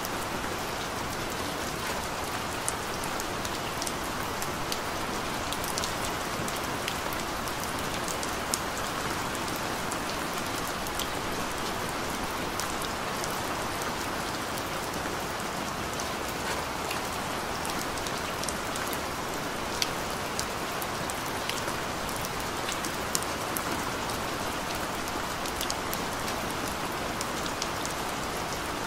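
Gentle rain falling steadily: an even hiss with scattered sharp drop ticks.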